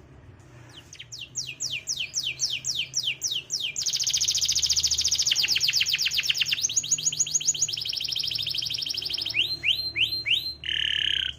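Domestic canary singing: a run of falling whistled notes about four a second, then a long, very fast, high trill that changes pace twice, a few more falling notes, and a short lower held note near the end.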